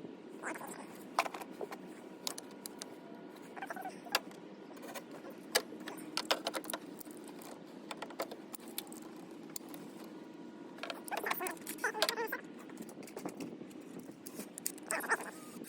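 Metal tools and parts clinking and rattling as they are handled, in scattered sharp clicks with busier clusters of clatter about eleven seconds in and near the end, over a faint steady hum.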